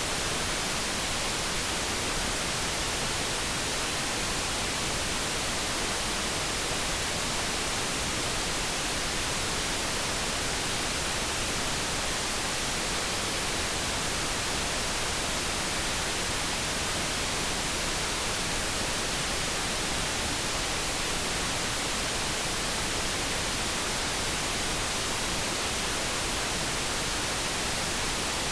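Steady synthetic light brown noise, an even, unchanging hiss with no tones or events in it.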